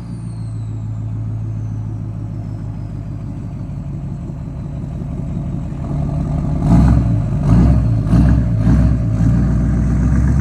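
Straight-piped diesel pickup engine idling cold, then revved in several quick blips over the last few seconds.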